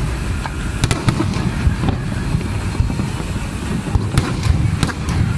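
Fireworks going off: a continuous low rumble of booms, with sharp cracks, two about a second in and a few more near the end.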